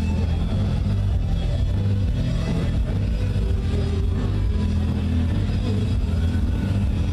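Motorcycle engines running with a heavy low rumble, mixed with loud music.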